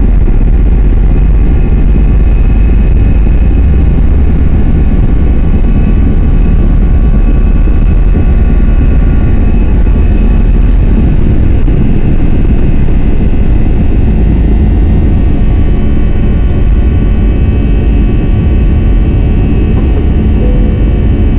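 Airliner's engines heard from inside the passenger cabin during takeoff: a loud, steady low rumble with a steady high engine whine over it.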